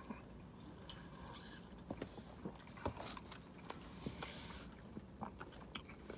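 Faint chewing and mouth sounds from a person eating a donut, with scattered soft clicks and smacks.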